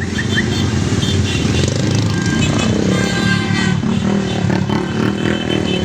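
Motorcycle and tricycle engines running steadily as a convoy of riders passes.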